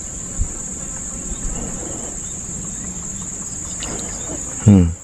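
Steady, high-pitched chirring of an insect chorus at dusk. A soft thump comes about half a second in, and a short, loud, low-pitched voice-like sound comes near the end.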